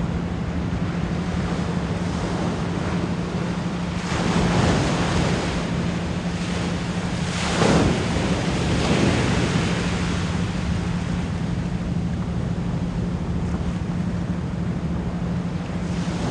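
Ocean waves washing in, a steady surf hiss that swells twice, about four and about eight seconds in, over a continuous low 174 Hz pure tone.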